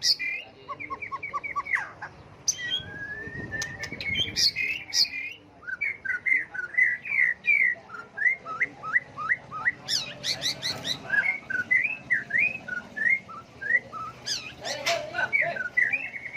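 White-rumped shama singing a varied, constantly changing song: quick series of short rising and falling whistled notes, a long upward slur, and trill-like runs, one phrase after another.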